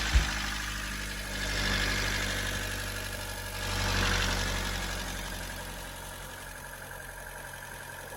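Car engine running near idle, with a sharp knock just after the start; it swells twice, then settles to a steady idle.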